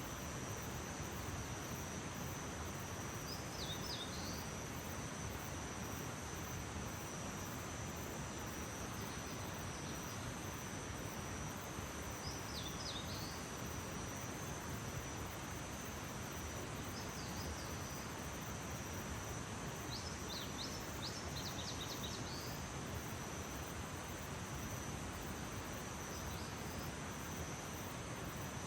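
Early-morning outdoor ambience: a steady high-pitched insect trill over a constant hiss, with brief groups of quick bird chirps every few seconds.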